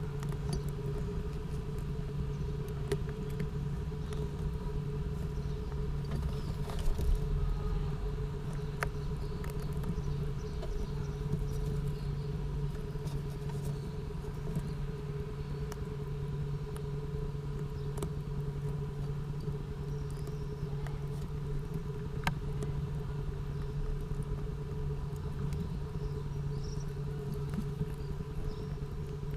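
Steady mechanical hum, even in pitch throughout, with a few faint clicks scattered through it.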